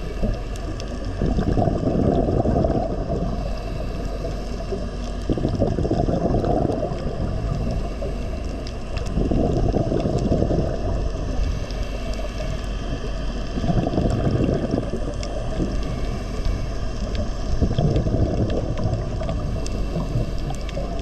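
Muffled water noise, swelling and fading about every four seconds.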